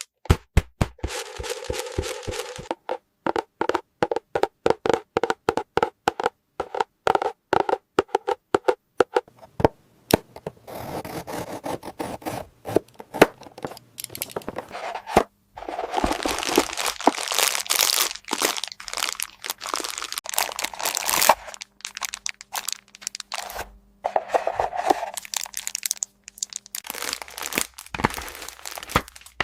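Toy packaging being unpacked: a quick run of sharp plastic clicks, about four a second, for the first ten seconds or so, then plastic wrapping crinkling and tearing.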